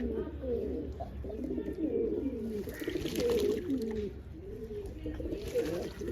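Several pigeons cooing at once, their low, rolling coos overlapping without a break. A few brief scratchy rustles come in about halfway through and again near the end.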